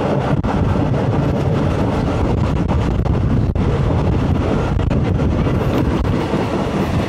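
Passenger train running along the track, heard from an open carriage window: a steady rumble of the wheels on the rails.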